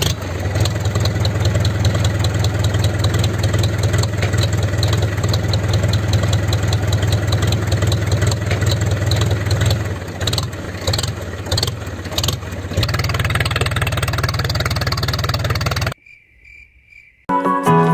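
Small motor of a homemade mini tractor running steadily with a buzzing rattle. It falters unevenly about ten to twelve seconds in, runs steadily again, then stops about sixteen seconds in. Music starts near the end.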